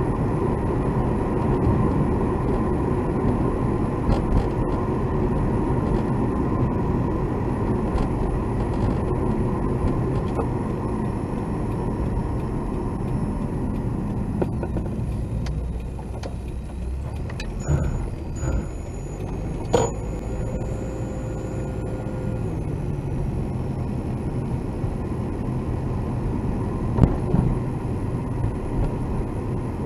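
Steady road and engine noise heard inside a moving car's cabin, with a few brief clicks and thin high tones a little past the middle.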